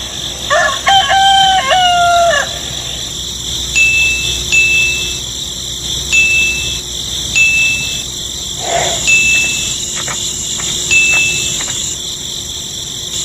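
A rooster crowing once, about two seconds long, followed by a string of short high-pitched peeps at a single pitch over a steady hiss.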